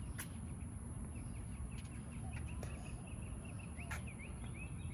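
A bird giving a quick series of short, repeated chirps, about three a second, starting about a second in. Under it are a steady low rumble, a steady high hiss and a few faint knocks.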